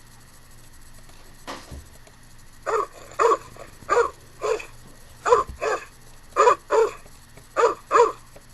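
Repeated short woof-like barks, about ten, mostly in quick pairs, starting a little over two and a half seconds in.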